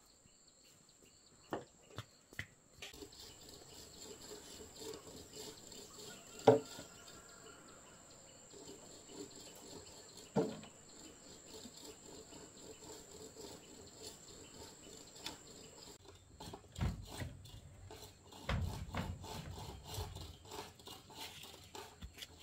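Insects trilling steadily at a high pitch, with scattered knocks and a few low thuds. The loudest is one sharp knock about a third of the way in.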